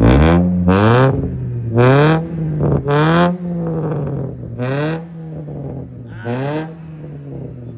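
Car engine revved in six quick blips through a modified exhaust, each rising and falling in pitch with a harsh exhaust rasp, settling back to a steady idle between blips.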